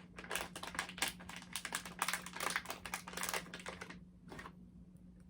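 Quick, irregular crackling clicks of dry plant material being handled and broken up by hand, stopping about four seconds in. A low steady hum runs underneath.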